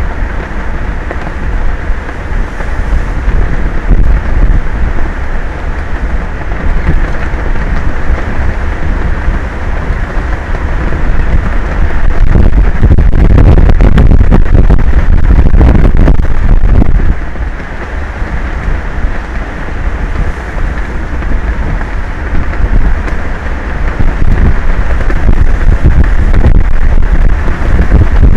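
Strong wind buffeting an outdoor microphone: a loud, steady low rush that swells with gusts about halfway through and again near the end.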